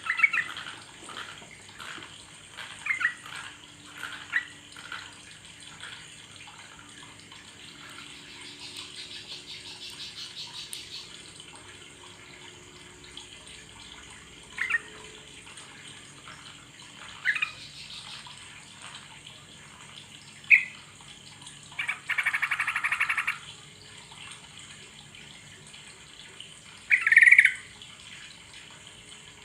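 Yellow-vented bulbul (trucuk) calling: short, loud chirping phrases scattered every few seconds, with a rapid buzzy chatter about two-thirds of the way in and a loud call near the end, over a steady rush like running water.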